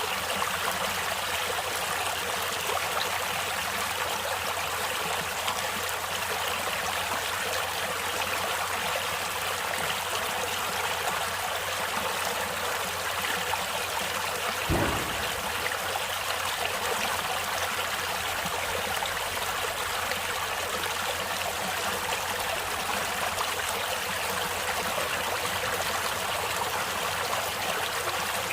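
Running water of a stream, a steady even rush and trickle. About halfway through there is one brief low thump.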